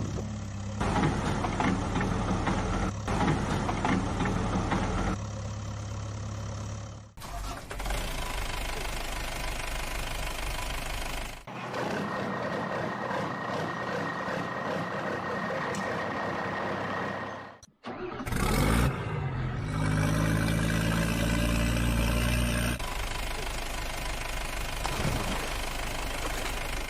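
Added heavy-vehicle engine sound effects: a diesel engine running and revving, with the sound switching abruptly between different engine clips several times.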